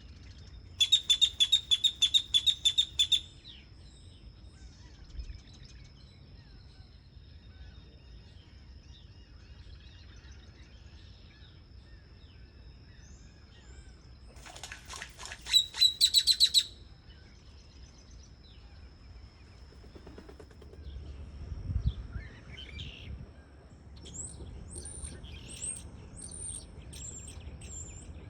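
Birds calling: two loud bursts of fast repeated chattering notes, about two seconds each, one near the start and one about halfway through, then a run of short high chirps toward the end.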